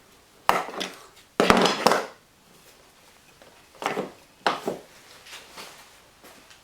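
Sharp clicks and knocks as a windshield wiper arm is handled and pushed onto its pivot shaft, the loudest cluster about a second and a half in, with a few lighter knocks after.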